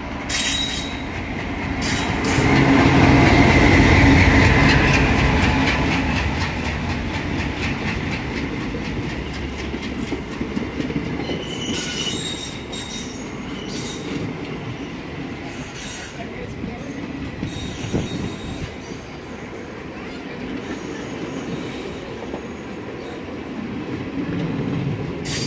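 A diesel locomotive passes close alongside on the next track, its engine rumble loudest a few seconds in. Then its passenger coaches roll by, with wheels clattering over rail joints and brief squeals.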